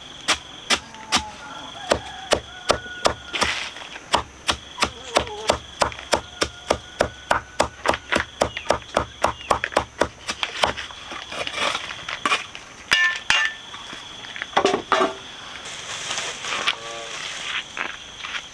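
Rapid, regular chopping, about three strokes a second, for the first ten seconds or so, then slowing to scattered knocks.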